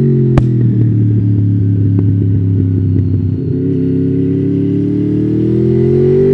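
Honda VFR800's V4 engine running under load, its pitch sinking steadily for about three and a half seconds as the bike slows, then rising again near the end as it accelerates. A single sharp click about half a second in.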